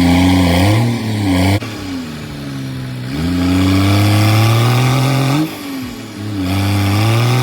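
Dump truck engine revved hard three times under load as the stuck truck tries to drive out of a rut over logs placed under its tyres; each rev climbs slowly in pitch, then drops away.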